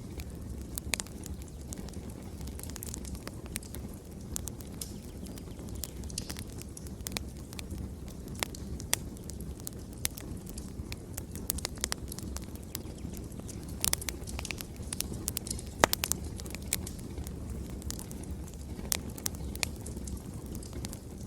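Wood fire burning in a fireplace, with a steady low rumble of the flames and irregular sharp crackles and pops from the burning logs, one pop louder than the rest about three-quarters of the way through.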